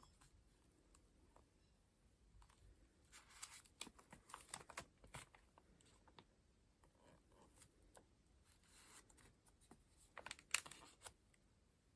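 Collage pages of layered paper being flipped and handled, giving soft rustles and crinkles with small clicks. There is a cluster of them in the first half and a louder, sharper one near the end.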